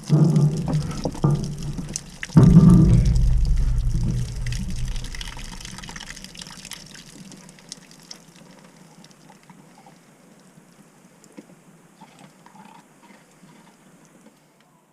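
Backed-up gray water pouring out of an opened, partly thawed drain pipe once the frozen clog gives way. It comes in two surges a couple of seconds apart, the second the louder, then tapers off over several seconds to a faint trickle.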